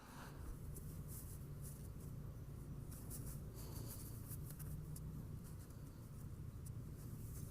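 Faint rustling and scratching from handling, over a steady low hum.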